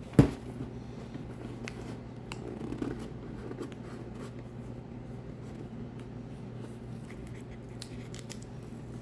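One sharp knock right at the start, then faint handling and rubbing sounds as a vinyl sticker is pressed down onto a welding helmet, over a steady low hum.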